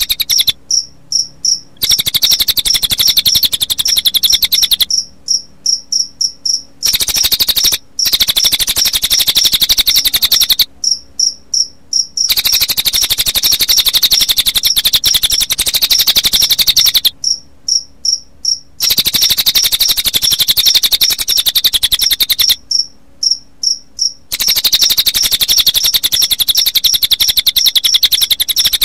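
A recording of cililin bird calls mixed with cricket chirping: very fast, high-pitched pulsed trills lasting a few seconds each, broken five times by short pauses filled with quick clusters of separate chirps.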